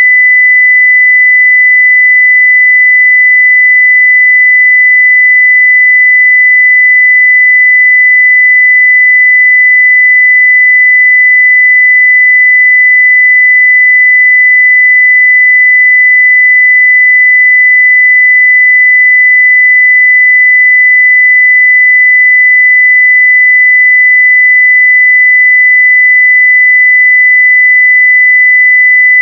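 A steady 2 kHz sine-wave test tone at full level (0 dB), one pure pitch held unchanged.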